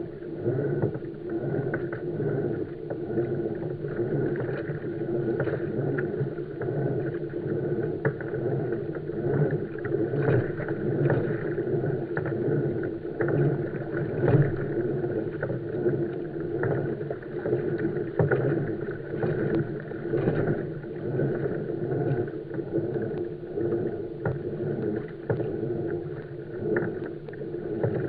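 Water sloshing and splashing against the hull of a pedal kayak under way, a steady rushing with frequent small knocks and slaps.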